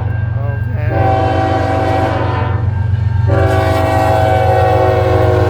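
Diesel locomotive air horn sounding a multi-note chord in blasts: a short one about a second in and a longer one from a little past the midpoint to the end, over the steady low rumble of the passing train.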